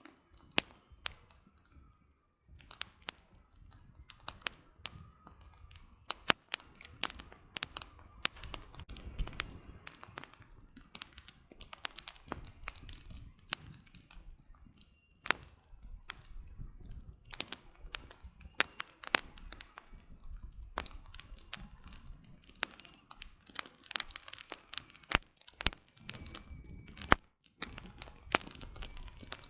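Campfire of burning firewood crackling: irregular sharp pops and snaps, some louder than others, over a soft low rush of the flames.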